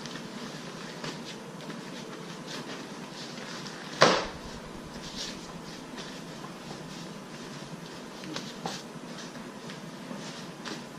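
Light clicks and knocks from a co-sleeper play-yard frame being handled and locked together, with one loud sharp clack about four seconds in.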